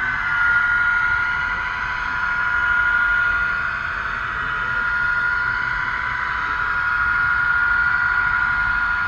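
HO-scale model train running along its track, heard from a camera riding on board: a steady whine over rolling noise.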